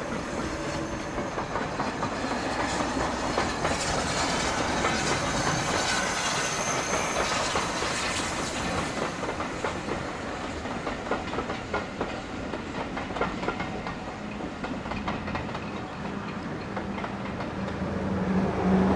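Passenger train rolling past, its wheels clattering rhythmically over the rail joints. A steady low drone grows louder near the end.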